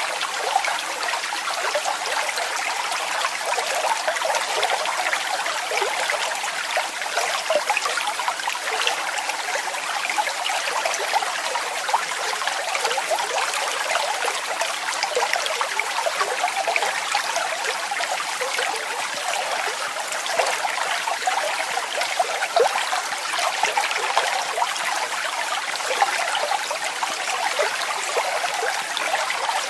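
Waterfall: water falling and splashing steadily, a constant rush dotted with many small splashes.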